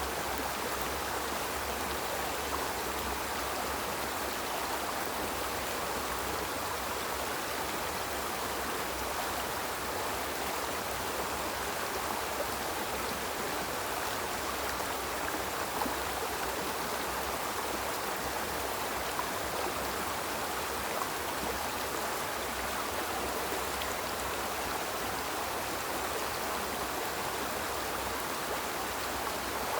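Small river flowing over rocks: a steady rush of water with an even, unbroken babble.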